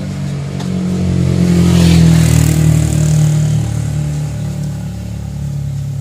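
A motor vehicle driving past close by, its engine growing louder to a peak about two seconds in and then fading away.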